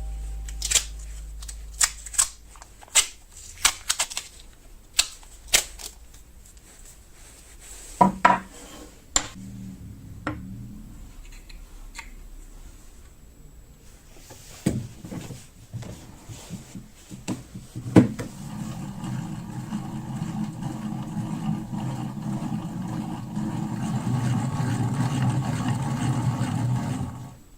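Workshop handling noises from work on an old knife: a series of sharp clicks and knocks, then a steady rough noise that builds up over the last several seconds and stops abruptly.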